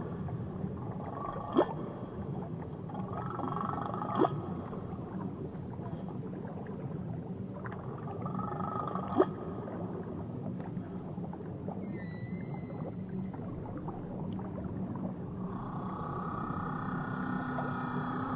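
Whale song heard underwater: long held calls several seconds each, with a few sharp clicks and a short high whistle-like call near the middle, over a steady low underwater rumble.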